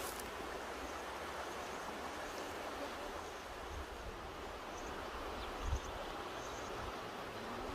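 Mountain river rushing steadily, with a low rumble beneath and a brief low thump about three quarters of the way through.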